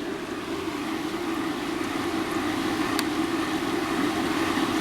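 Water-based air purifier and humidifier running steadily, its motor whirring as the water spins in its bowl, with one light click about three seconds in.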